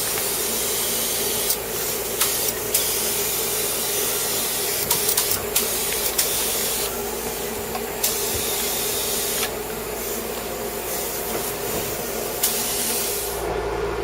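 Paint spray gun hissing in stretches of stronger and weaker spray over a steady mechanical hum; the spray cuts off near the end.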